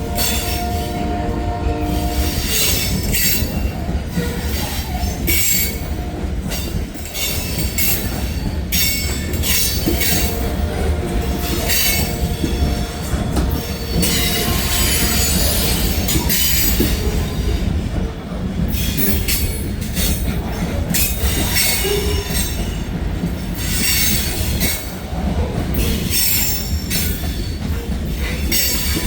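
Heavy freight train passing close by, its cars rolling past with a constant low rumble and rapid wheel clatter. A steady wheel whine comes and goes, at the start and again about ten to fourteen seconds in.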